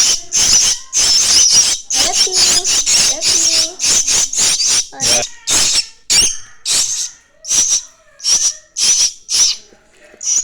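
Starling nestlings giving harsh, hissing begging calls over and over, rapidly at first, then more spaced out and softer after about six seconds.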